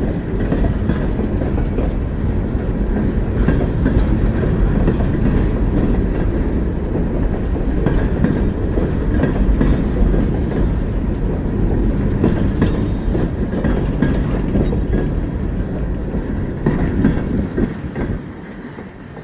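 Freight train cars rolling past, with a steady heavy rumble and wheels clicking over the rail joints. The sound falls away sharply about a second before the end.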